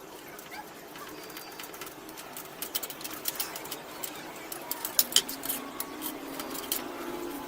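A quick, irregular series of sharp clicks and taps, loudest about five seconds in, over a faint steady low hum.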